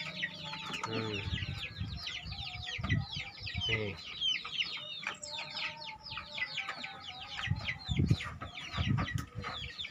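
Birds peeping nonstop: a dense run of quick, high chirps, each falling in pitch, with a few low thuds now and then.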